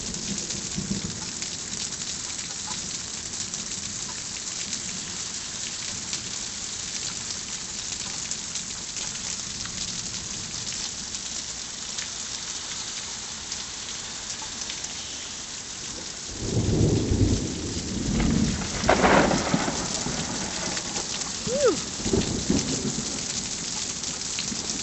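Heavy rain falling steadily on surfaces. About two-thirds of the way in, a deep rumble of thunder starts suddenly and rolls on in several swells.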